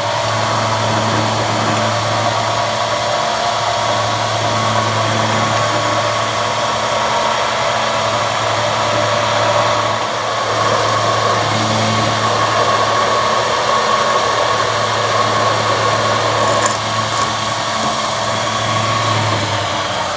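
Electric drilling machine running steadily under load, drilling a hole for a thread repair, with a constant motor hum under a hissing cutting noise.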